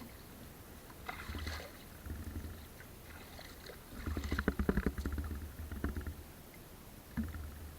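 Water splashing and sloshing with low rumbling handling noise as the fishing net is worked. The splashing comes in short spells and is busiest and loudest from about four to six seconds in.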